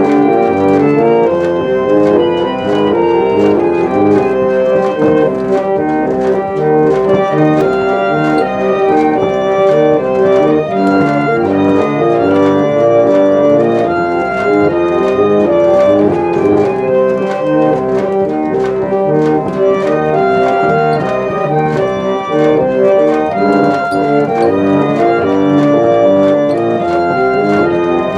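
Pump organ (reed organ) being played: held chords moving from note to note through a tune, the reeds sounding steadily.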